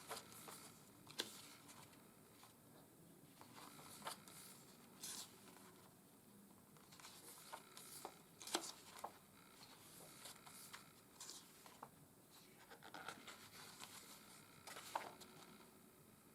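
Pages of a paperback art booklet being turned by hand: faint, scattered paper rustles and light taps, a few seconds apart.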